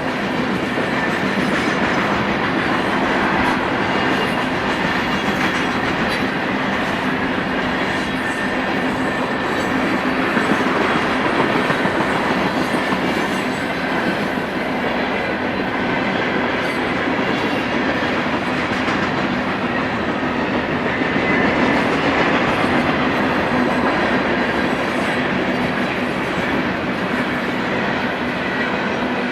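A BNSF manifest freight train rolling past, its mixed freight cars making a steady rumble with steel wheels running on the rails.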